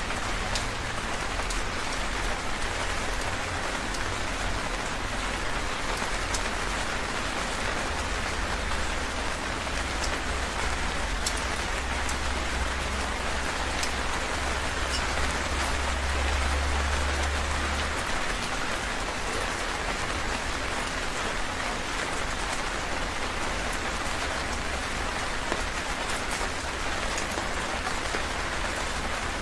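Heavy rain falling steadily: a dense, even hiss with scattered sharp drop ticks. A low rumble swells through the middle and fades out a little past the halfway point.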